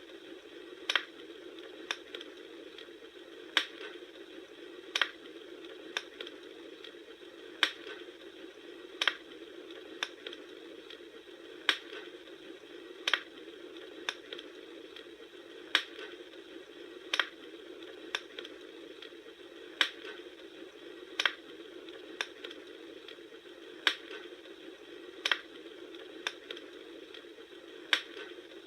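Bonfire burning with a steady hiss and sharp crackling pops at very even spacing, about one every second and a half.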